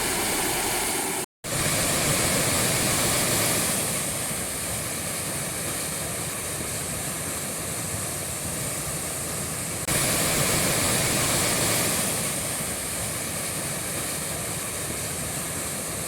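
Waterfall: water falling and rushing, a steady, even rush of noise. It breaks off for a moment about a second in and steps up in level about ten seconds in, where the clip changes.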